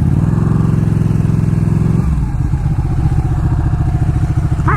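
Sportbike engine running as the motorcycle pulls away and rides off; the engine note changes about two seconds in.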